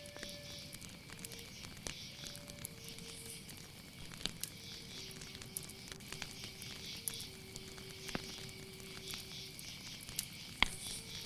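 Night nature ambience: a steady high insect chirring over many scattered crackling clicks, with a few soft held low tones that change pitch now and then.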